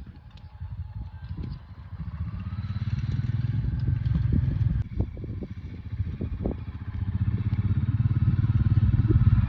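Honda Africa Twin XRV750's V-twin engine running as the motorcycle rides, growing louder over a few seconds, dropping off abruptly about halfway through, then building again, with a few short knocks.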